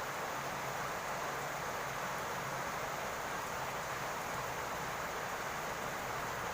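Steady rain on a roof: an even hiss at a constant level with no single drops standing out, over a faint low hum.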